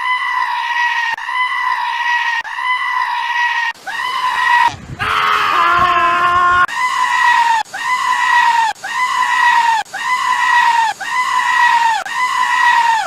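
A goat screaming over and over, a high-pitched call about once a second, each one held and then falling at its end. A longer call in the middle overlaps a second, lower animal cry.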